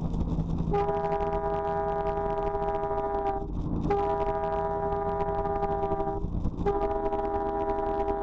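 A loud multi-tone horn blaring in long blasts of two to three seconds each, broken twice by short gaps, over a low rumble.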